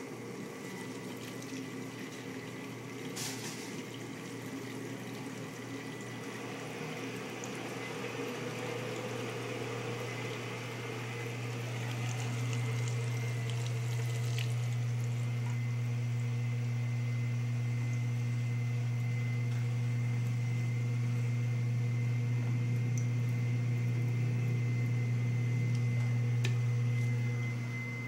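Metrowealth WP5B countertop dishwasher running, its motor humming steadily with water rushing inside. The hum grows louder around the middle and cuts off suddenly near the end.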